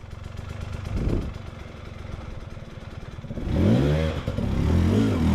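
Enduro dirt bike engine running low, then revved hard about three and a half seconds in, its pitch rising and falling again and again as the throttle is worked.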